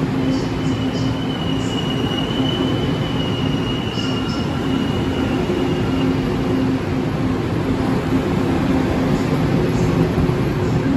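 Taiwan Railways push-pull Tze-Chiang express running slowly alongside a station platform as it arrives: a steady rumble of wheels on rail with a low hum. A thin, high wheel squeal runs through the first six seconds or so, then fades.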